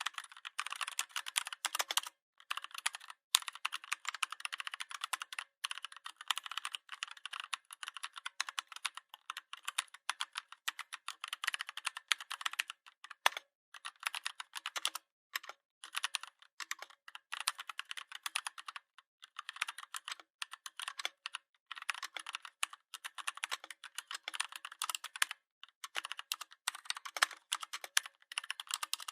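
Fast, continuous typing on a computer keyboard: a dense run of key clicks, broken by brief pauses every few seconds.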